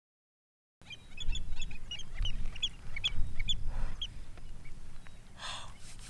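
A flock of birds calling: a quick flurry of many short, high, overlapping calls that starts abruptly just under a second in and thins out after about four seconds, over a low rumble. A couple of brief rustles follow near the end.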